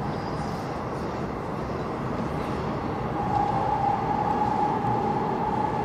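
Airport Railroad express train running at speed through a tunnel: a steady rumble of wheels on rail, with a steady high whine that fades out briefly and returns about three seconds in.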